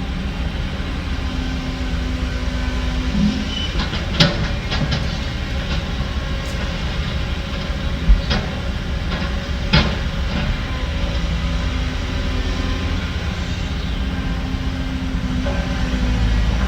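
Heavy diesel construction machinery running with a steady low rumble, with a few sharp metallic clanks about four, eight and ten seconds in.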